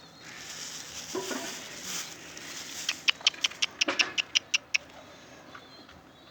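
Pet pigeons heard up close: a brief low call about a second in, then a quick run of about ten sharp clicks, about five a second, lasting roughly two seconds.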